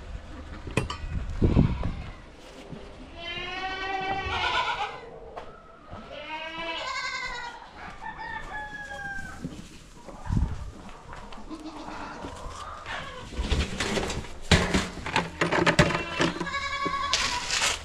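Goats bleating: several long, quavering calls in the first half, followed by knocks and clatter in the second half.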